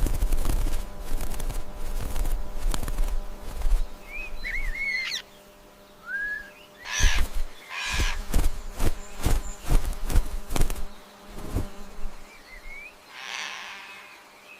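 A bird chirping a few short rising calls, among fluttering and rustling with quick, sharp flutters.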